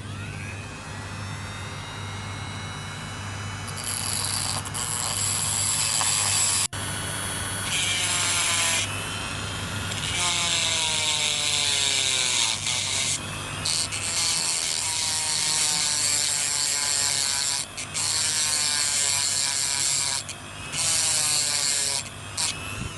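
A tool cutting into the toy Jeep's die-cast metal body. The cutting hiss comes in stretches of a few seconds with short breaks, and repeated tones fall in pitch.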